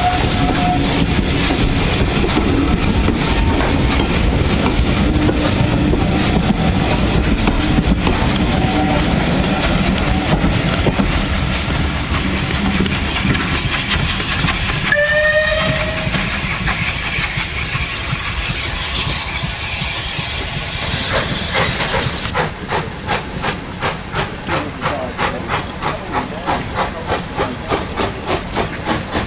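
Steam train running past with a loud rush of noise and hiss, and a short whistle about halfway through. Near the end it settles into a steady rhythmic beat of about two a second, like wheels clicking over rail joints.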